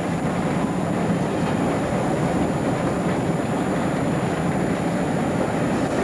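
Diesel train running along dock lines, heard from an open carriage window: a steady noise of the train's engine and its wheels on the track.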